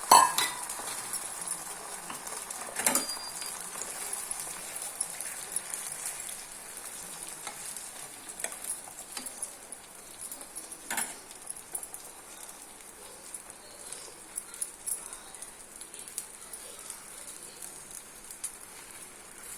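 Beaten eggs sizzling on a hot tawa, a steady frying hiss. A sharp utensil knock comes right at the start, and a few fainter clicks follow about three and eleven seconds in.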